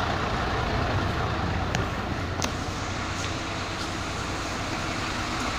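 Diesel engines of Volkswagen 17-260 OD and 17-230 OD bus chassis idling steadily, with two sharp clicks a little under a second apart near the middle.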